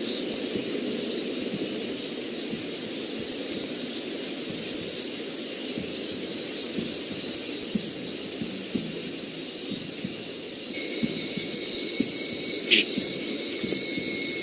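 Night insect chorus in tropical forest: a steady, high-pitched, continuous trilling, with a second steady high tone joining about eleven seconds in and a brief single call a little later.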